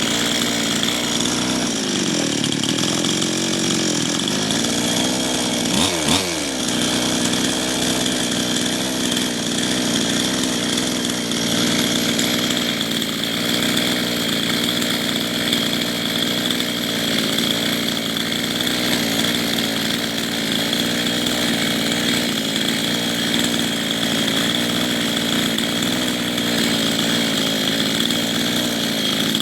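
Small carburetted engine running steadily while its carburettor is tested. The engine speed sags and recovers a couple of seconds in, then changes quickly about six seconds in, before settling to an even idle.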